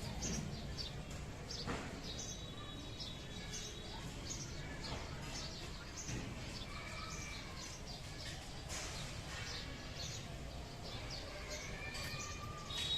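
Several wild birds chirping and calling, with short quick chirps throughout and a few held whistled notes, over a steady low background rumble.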